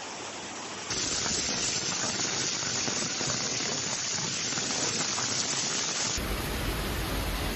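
Rushing floodwater: a steady hiss of water noise with no distinct events, changing abruptly in level and tone about a second in and again near six seconds in.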